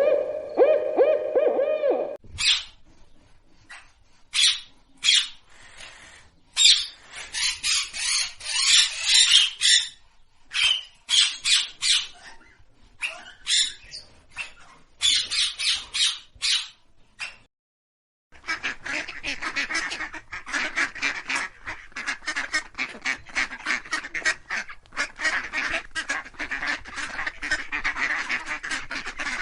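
A series of bird calls. First comes a low, evenly pitched call lasting about two seconds. Then a run of harsh, noisy calls with gaps between them, and after a brief silence, a dense, rapid chatter of many calls, as from a flock.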